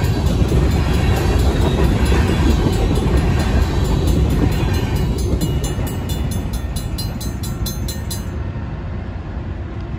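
Loaded grain-train covered hopper cars rolling past at a crossing, a heavy, steady rumble of wheels on rail that fades as the end of the train goes by. In the second half a fast, even run of sharp clicks comes through, stopping about eight seconds in.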